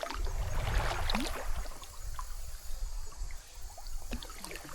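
Kayak paddle dipping into the water, with a splashy stroke in the first second or so, followed by small drips and trickles off the blade.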